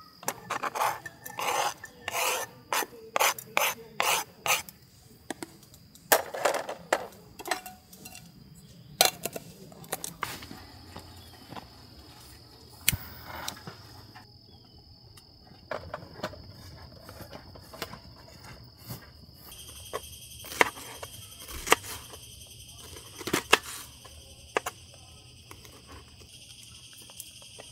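A series of knocks, clatters and rubbing as gear or cookware is handled, thickest in the first ten seconds and then scattered. Behind it is a steady high buzz of insects, which grows fuller about two-thirds of the way through.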